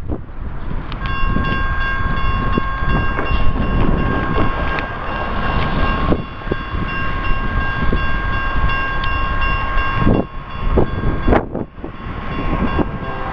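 Diesel locomotive's multi-chime air horn sounding one long blast from about a second in, breaking off around ten seconds, and starting again near the end, over the heavy low rumble of the approaching train.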